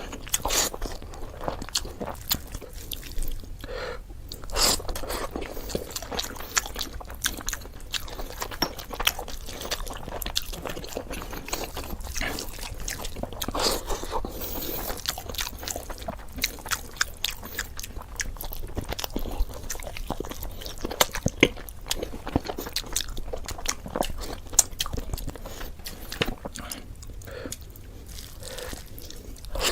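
Close-miked chewing and biting of basmati pulao and mutton curry, a steady run of small mouth clicks and smacks.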